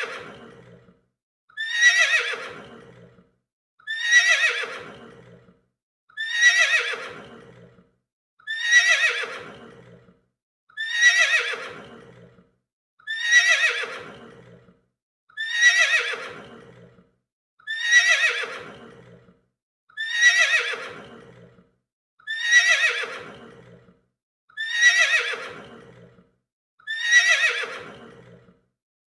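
A horse neighing, the same whinny repeated about every two and a quarter seconds, around thirteen times. Each call starts sharp and high, then falls in pitch as it fades away.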